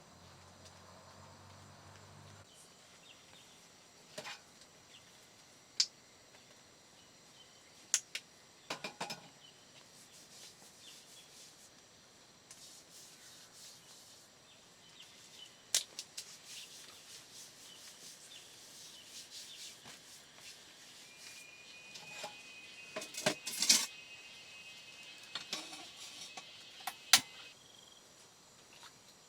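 Light handling noises: scattered sharp clicks and knocks with some rubbing and scraping, and a faint steady high tone for several seconds near the end.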